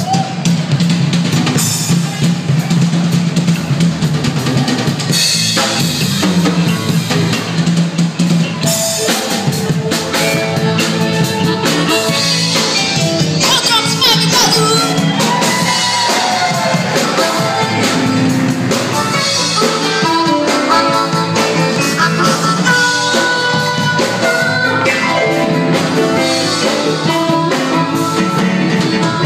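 A live band playing music over a full drum kit. About nine seconds in, a lead line of pitched notes stands out more clearly, with a few bent, gliding notes near the middle.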